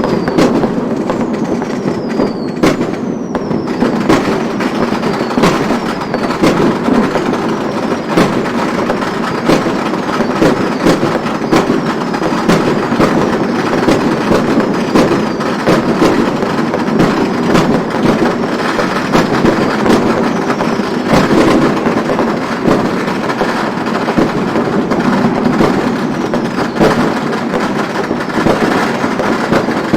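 Chinese fireworks: a dense, unbroken crackle of firecrackers with many sharp bangs, and falling whistles from whistling fireworks, clearest in the first few seconds.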